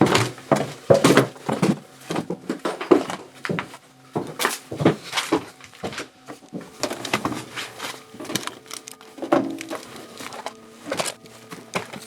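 A run of irregular knocks and clatters with some rustling, the sound of things being moved and handled.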